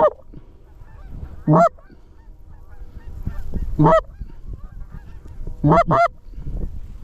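A goose call blown by a hunter, giving loud, short honks spaced a second or two apart and a quick double honk near the end. Fainter honking from live geese carries on underneath.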